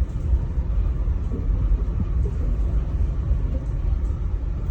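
Aerial tramway cabin travelling up its cable: a steady low rumble.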